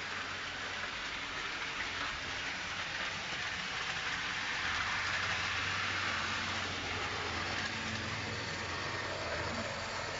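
OO-scale model train, a class 60 locomotive hauling oil tank wagons, rolling along the track with a steady rattling hiss of wheels on rail over a low motor hum. It grows louder about four seconds in as the train comes closer, then eases off slightly.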